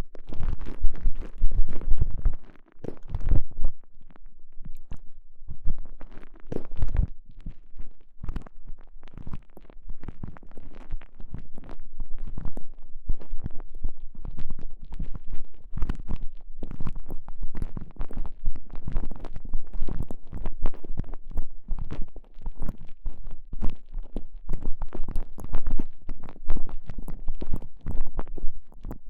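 A TENGA Egg's stretchy elastomer sleeve squeezed and rubbed directly over a microphone, giving a dense, irregular run of muffled squelching, rubbing strokes and deep rumbling thumps.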